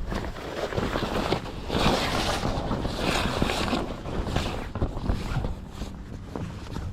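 Wind gusting on the microphone, mixed with irregular rustling, clatter and knocks from a Gull sailing dinghy's sail and rigging.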